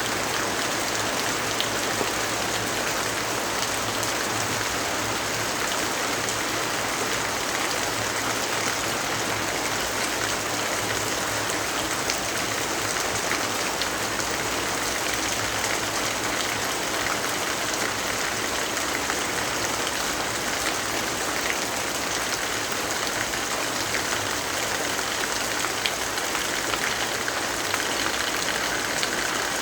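Steady rainfall: an even hiss with many small drop ticks throughout.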